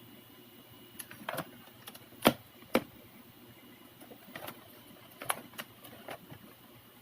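Irregular clicks and knocks of small hard objects being handled, with two sharper clicks about two and a half seconds in, over a faint steady hum.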